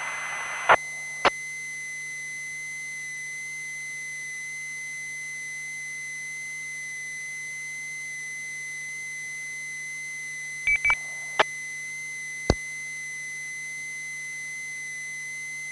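A steady, high-pitched electronic tone on a two-way radio channel, between transmissions, with a faint hum under it. Several sharp short clicks break in: two near the start, a quick pair and then two more single ones a little after the middle.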